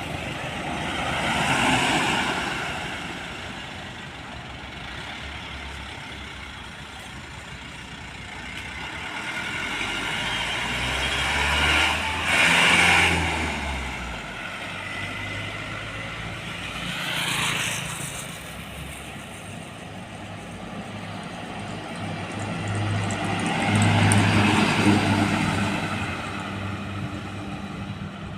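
Trucks and other road traffic passing by one after another, each swelling up and fading away. The loudest and heaviest passes come about twelve seconds in and again near the end, with a low diesel engine hum.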